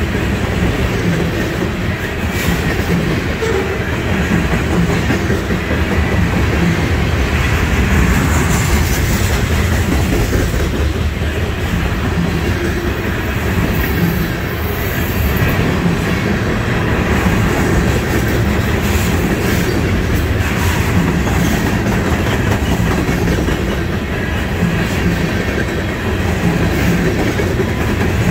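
Freight cars of a trash train rolling past close by: a loud, steady rumble of steel wheels on rail with a rhythmic clickety-clack of the wheel sets.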